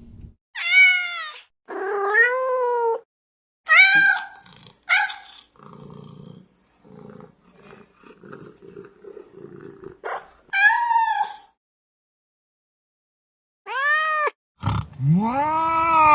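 Domestic cat meowing in a string of separate calls of varying pitch, some short and rising-falling, one longer and lower. A few seconds of low, broken rumbling come in the middle. Near the end one long drawn-out yowl begins.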